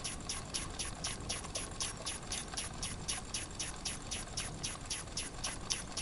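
Wilesco toy steam engine ticking over slowly, its exhaust puffing steadily at about four puffs a second. It is leaking steam badly from the cylinder, through a hole in the steam chest left by a missing screw.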